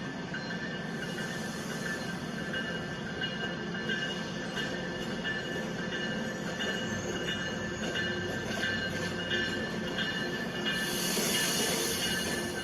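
Train rolling slowly on station track, its wheels squealing in steady high-pitched tones over a rumble, with a burst of hiss about eleven seconds in.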